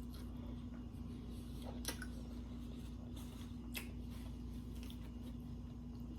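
A person eating close to the microphone: quiet chewing with a couple of brief sharp clicks of mouth or crunch noise, over a steady low hum.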